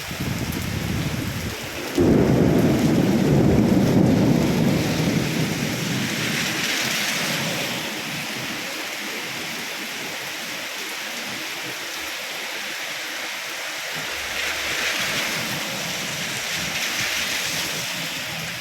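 Steady rain falling, with a sudden clap of thunder about two seconds in whose low rumble fades over the next few seconds. The hiss of the rain swells twice later on.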